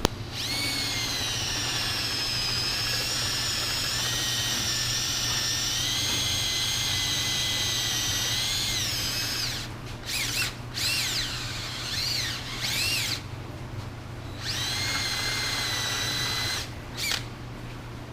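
A small high-speed rotary tool whines steadily as it cuts into a factory fuel pressure regulator to gut its internals. About ten seconds in it runs in short bursts, its pitch dipping and rising as it bites. It then runs steadily again for a couple of seconds, ending with a brief burst.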